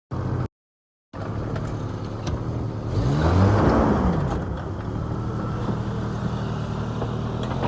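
Lifted Jeep Grand Cherokee ZJ's engine running, revving up and back down once about three seconds in. The sound cuts out twice, briefly, near the start.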